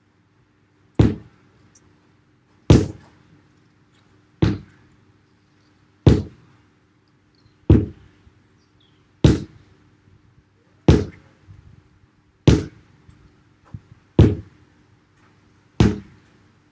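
Sledgehammer striking a tyre ten times in a steady rhythm, one heavy thunk about every second and a half.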